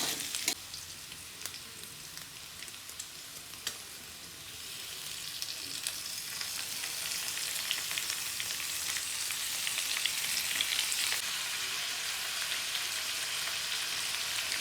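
Smoked pork and potatoes frying in oil in a pan, sizzling steadily, with a few light clicks in the first seconds. The sizzle grows louder from about four seconds in and holds.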